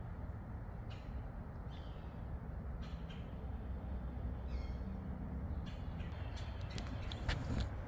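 A crow cawing four times, short calls spaced one to two seconds apart, over a steady low rumble of highway traffic. A few sharp clicks come near the end.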